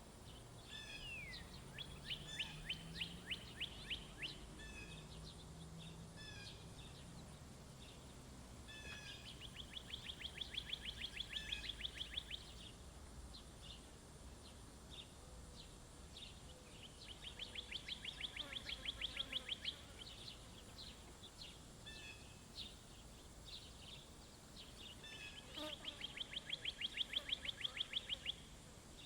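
A songbird singing a rapid, dry trill of evenly spaced notes, each trill lasting two to three seconds and growing louder toward its end, repeated four times about every eight seconds. Short chip notes are scattered in between.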